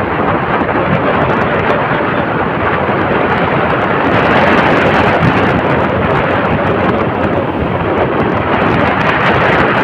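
Steady, loud rush of wind buffeting the microphone on a moving motorcycle, with road and motor noise mixed in. It swells a little about four seconds in.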